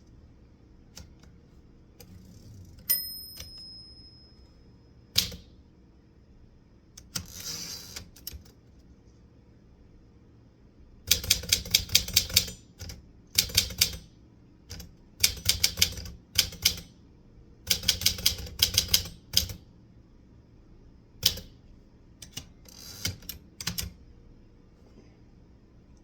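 Manual typewriter being typed on: bursts of rapid key strikes separated by pauses. Just before three seconds in, a single ringing tone sounds like the typewriter's bell, and a brief scraping sound comes around seven seconds.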